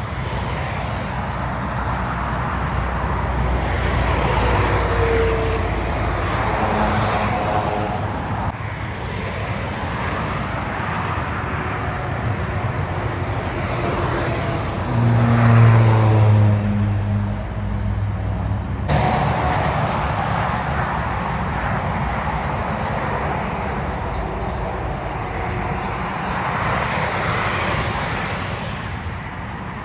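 Road traffic noise with heavy trucks driving past, their diesel engines droning over tyre noise. One truck is loudest, passing close about halfway through. The sound changes abruptly twice, at cuts.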